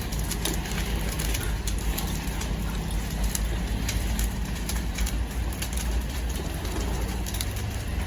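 Wood fire crackling, with irregular sharp snaps over a steady low rumble.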